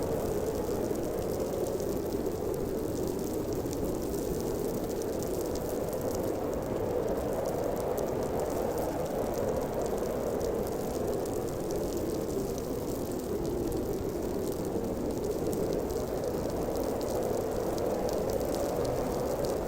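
Blizzard wind blowing steadily, a dense hollow rush centred low to mid in pitch, with a deep rumble beneath and faint crackle on top.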